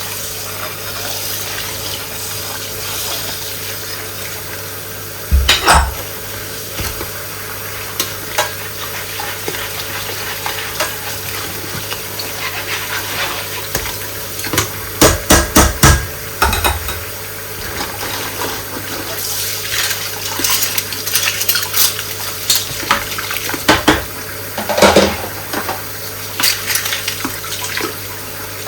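Dishes being washed by hand in a sink: water running steadily, with scattered clinks and clatters of dishes and cutlery. The clatter is loudest about five seconds in, around the middle and near the end.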